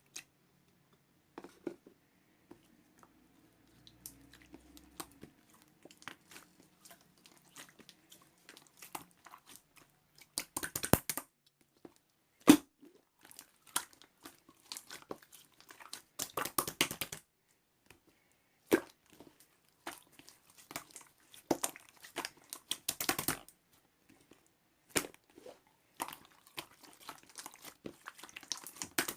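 Blue clear slime being squeezed and pressed by hand, giving scattered sticky clicks and crackling pops, with several denser runs of crackling and one sharp loud pop.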